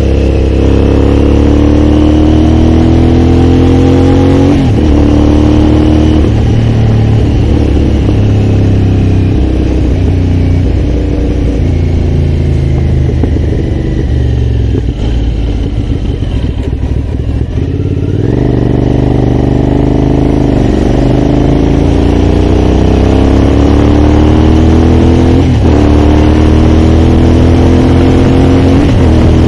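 Aprilia Shiver's V-twin engine accelerating through the gears, its pitch climbing and dropping back at each upshift. Midway it eases off and slows for several seconds, then pulls up through the gears again with three more shifts.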